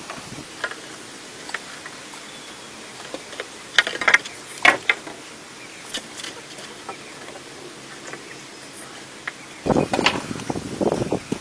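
Scattered light knocks and clicks of wood being handled and worked, over a steady background hiss. A louder, rougher stretch of working sound starts about ten seconds in.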